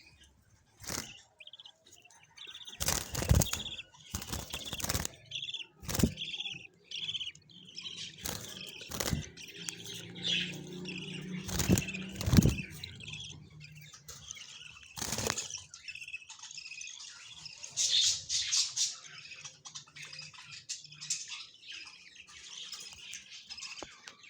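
Budgerigars chirping, with repeated short, loud rustles and knocks scattered through.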